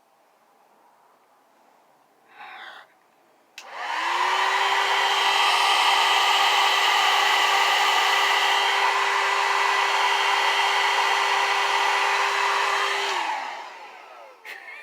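Handheld hair dryer starting with a click, its motor whine rising to a steady pitch under a loud rush of air for about nine seconds, then winding down as it shuts off. A short hiss comes just before it starts.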